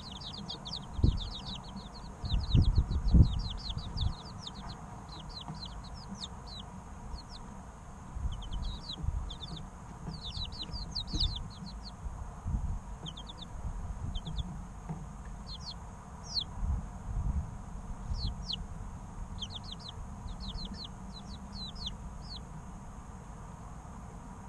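Three-week-old chicken chicks peeping: quick runs of short, high, downward-sliding peeps with brief pauses between the runs. Several low, dull thumps come in among them, the loudest about one second and three seconds in.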